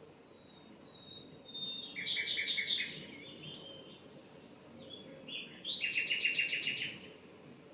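Nightingale singing: a soft drawn-out whistle, then about two seconds in a phrase of fast repeated notes, and a second rattling run of repeated notes a little after halfway.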